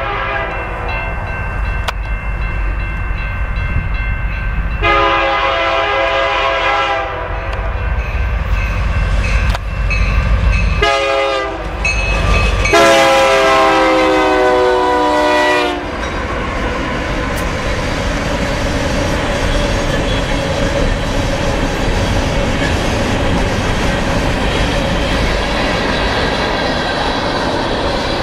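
BNSF freight locomotive air horn sounding long, long, short, long, the grade-crossing signal, with the last blast loudest as the locomotives go by. Then a steady rumble and clatter of coal cars' wheels rolling past on the rails.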